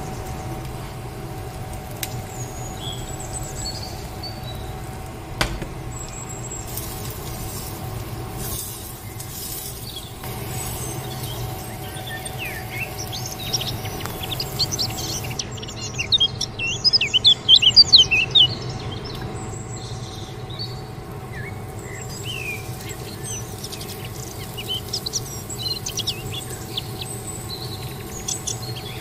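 Small birds chirping in quick, high twitters, sparse at first and thickest just past the middle, over a steady low hum.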